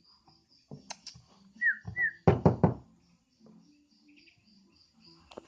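Javan myna giving two short downward chirps, followed by three quick loud knocks, with a faint thin high whistle behind.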